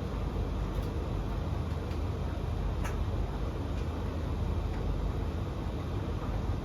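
Three tumble dryers, a Blomberg LTK310030W, a Russell Hobbs RH3VTD800 and a Hoover HLEC8TRGR-80, running together mid-cycle: a steady low drone of turning drums and fans, with a faint tick now and then.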